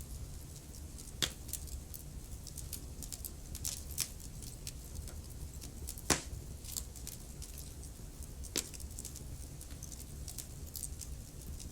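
Wood fire crackling in a fireplace: a steady low rumble under scattered, irregular sharp crackles, with a few louder pops standing out.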